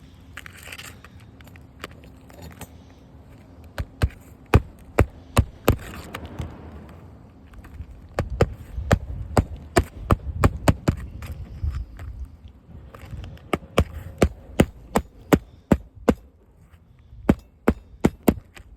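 A series of sharp knocks or taps, irregular and a few a second, coming in bursts over a low rumble.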